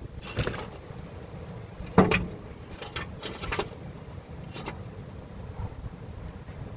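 Scattered clanks and knocks of tools and metal parts being handled while working on a car's front suspension to fit a shock absorber. The loudest knock comes about two seconds in.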